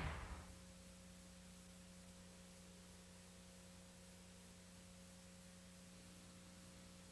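Near silence with a faint steady hum from the VHS playback, after the last of the trailer's sound fades out in the first half second.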